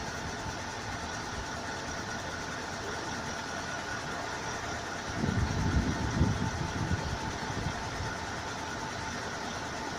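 Engine noise of a landing aircraft, steady, with a whine of several held tones. A louder low rumble swells for about two seconds halfway through.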